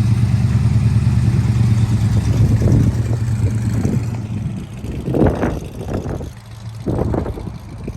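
Car engine running as the car moves off on a slow loop, a steady low drone for the first four seconds that then drops away, with a few short bursts of noise near the end.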